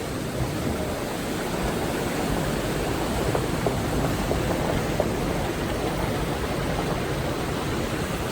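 A steady rushing noise, even throughout, with no distinct impacts or tones.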